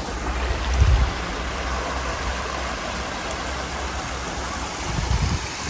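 Stream water rushing steadily, with two brief low rumbles, about a second in and near the end.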